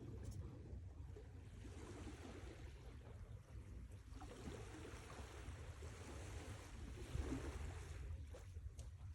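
Sea waves washing in, swelling in a couple of long surges over a steady low rumble.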